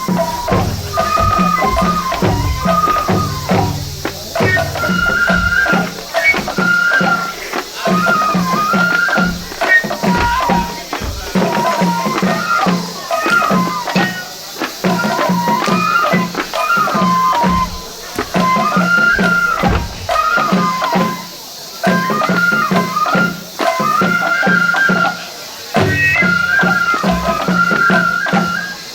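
Japanese festival hayashi music: a high bamboo flute playing a repeating melody that steps up and down, over steady drum strokes.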